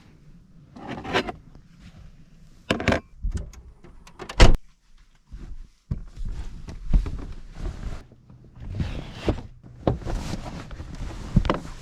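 Rummaging through packed food and containers by hand: scattered knocks, clicks and rustling, with one sharp knock about four and a half seconds in.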